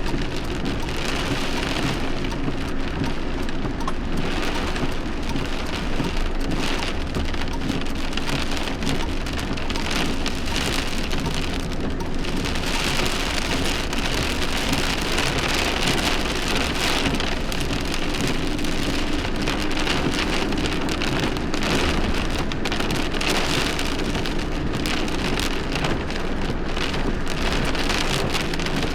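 Heavy rain falling steadily, an even hiss of drops during a thunderstorm.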